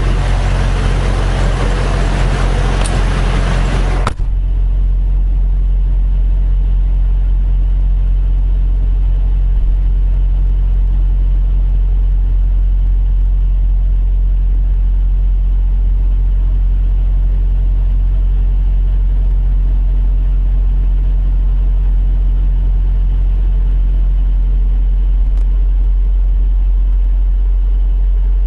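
Steady low drone of an idling semi truck's diesel engine, heard from inside the cab. For the first four seconds a loud rush of noise covers it, then stops abruptly with a brief thump, leaving only the even idle.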